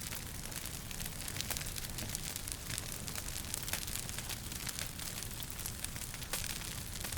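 Wood fire crackling, with many quick pops and snaps over a low steady rumble.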